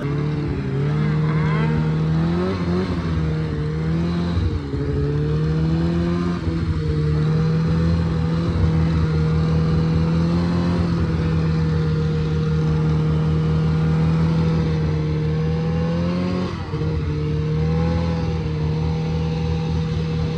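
Polaris RMK Pro 800 snowmobile's two-stroke engine running at steady high revs. Its pitch wavers up and down in the first few seconds, then holds steady, dips briefly about sixteen seconds in and settles again.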